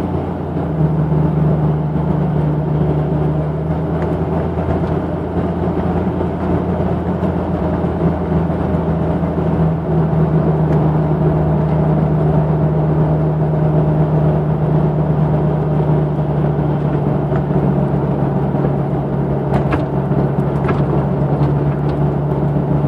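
Jeep Cherokee 4.0-litre straight-six running steadily through a 2.5-inch exhaust with a Thrush Turbo muffler, a constant exhaust drone that holds one pitch.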